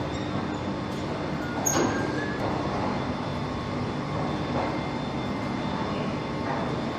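Car assembly line ambience: a steady mechanical hum with a faint whine, a short metallic clank and squeal about two seconds in, and lighter knocks later.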